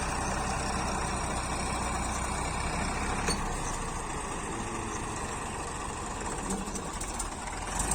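Tractor engine running steadily with a low, even hum, with a brief faint knock about three seconds in.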